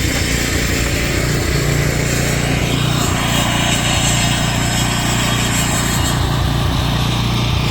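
Gas-engine asphalt saw running steadily, cutting the pavement. A brighter, higher-pitched cutting sound rises between about three and six seconds in.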